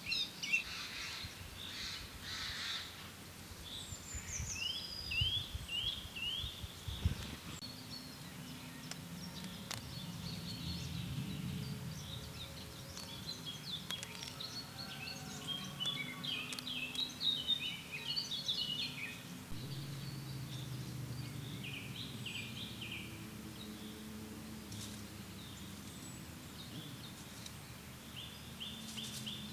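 Several small songbirds chirping and singing in short bursts and trills, over a low steady background rumble.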